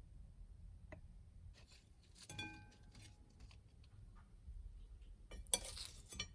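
Kitchenware clinking once with a brief ring about two seconds in, then a short scraping rustle near the end.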